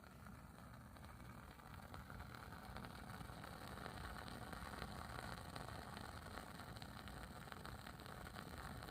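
Wooden wick burning in a beeswax candle, crackling softly as a dense run of tiny pops that grows a little louder after about two seconds.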